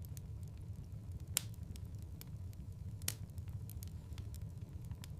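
Wood fire crackling in a fireplace: a steady low rumble of flames with scattered sharp pops and clicks, two of them louder, about a second and a half and three seconds in.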